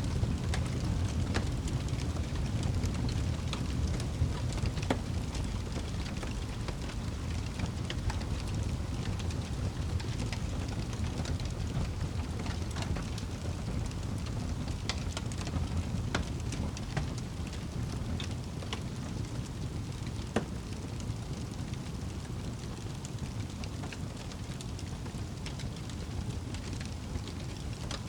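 Wood fire burning in a fireplace: a steady low rumble and hiss of the flames with scattered sharp crackles and pops from the burning logs.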